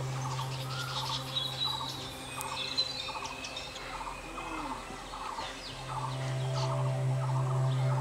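Birds calling, a repeated chattering with scattered high chirps. A low steady hum fades out for a few seconds in the middle.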